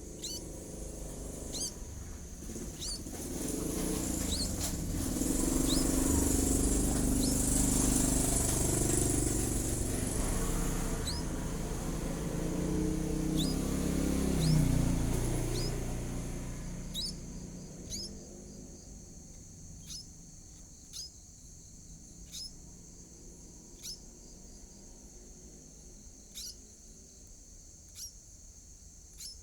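A motor vehicle passes, its rumble swelling for several seconds, rising in pitch briefly, then fading away. Throughout, short sharp high chirps repeat about once a second over a steady high insect drone.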